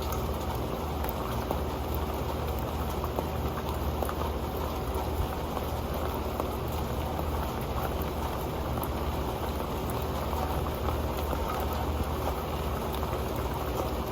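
Rain falling onto an old pan: steady rain with many small, sharp drop ticks scattered through it.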